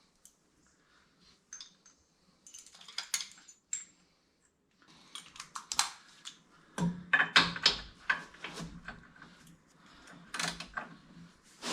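Small metal parts and hand tools clinking and rattling as they are handled, an irregular run of sharp clicks and clatters that is loudest in a cluster about seven seconds in.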